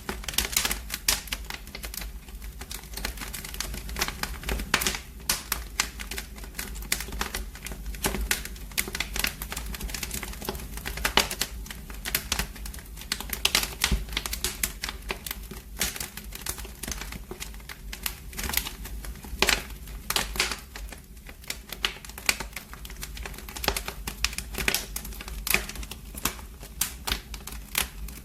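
Wood fire burning in a fireplace, crackling and popping with dense, irregular snaps of varying loudness over a steady low rumble.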